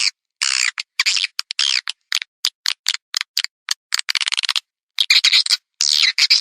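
Recorded swiftlet calls played as a lure sound for swiftlet farming: rapid, high-pitched chattering twitters in quick bursts, with a brief silent break about four and a half seconds in.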